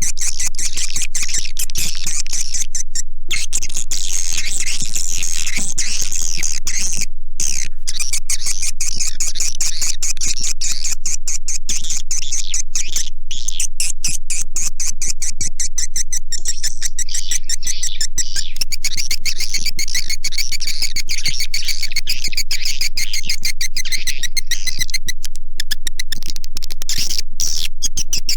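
Recorded swiftlet calls: a dense, continuous twittering of rapid chirps and clicks. It is a swiftlet lure call, played to attract the birds into a nesting house.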